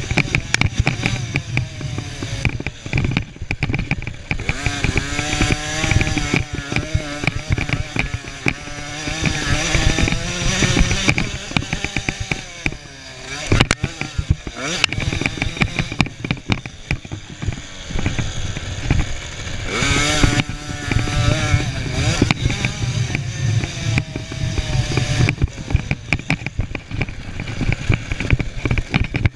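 Small two-stroke KTM 50 cc motocross bikes racing, their high-pitched engines revving up and down with the throttle as several overlap.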